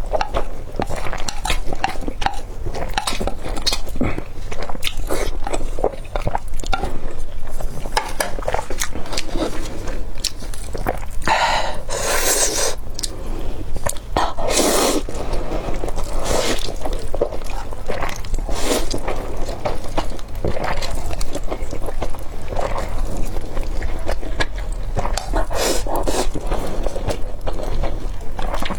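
Close-miked chewing and biting of thick spicy Buldak instant noodles and fried egg, full of small wet mouth clicks, with two longer noisy stretches about halfway through.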